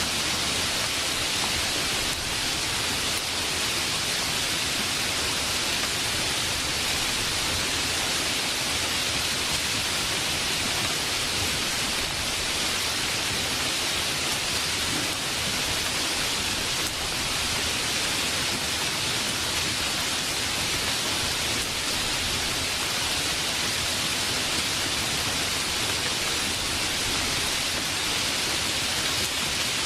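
Steady, heavy rainfall: an even, unbroken hiss of rain with no distinct drops or thunder.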